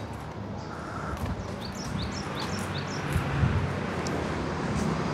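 Outdoor ambience with a steady low rumble underneath. A small bird gives a quick series of about five short, rising chirps about a second and a half in.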